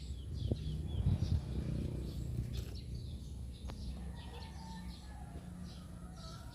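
Small birds chirping repeatedly in quick short notes, over a low rumble that is strongest a second or two in.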